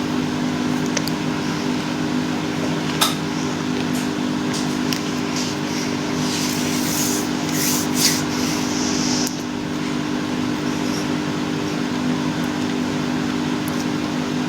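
Steady machine hum, like an appliance motor or fan, with a few sharp clicks and a brief hiss about halfway through.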